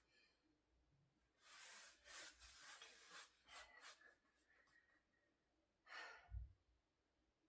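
A woman breathing hard from core exercise: a run of breaths from about one and a half to four seconds in, then one more breath around six seconds with a soft low thump.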